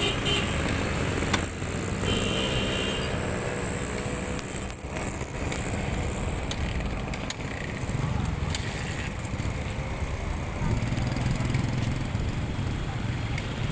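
Steady rumble of vehicle engines mixed with outdoor noise.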